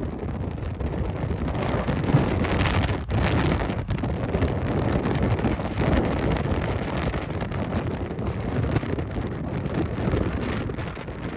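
Strong wind gusting across the microphone, a rumbling rush that swells and dips, with two brief lulls a few seconds in.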